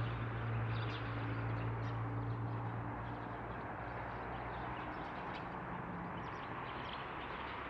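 Outdoor background: a steady low hum and an even hiss, with faint, brief chirps of small birds now and then.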